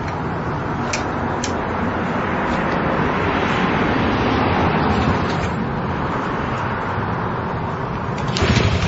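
Honda CL70's small single-cylinder four-stroke engine running rough on a stand, getting louder over the first few seconds and then easing back, with some sharp knocks near the end. It will not settle to an idle, which the owner blames on the carburetor.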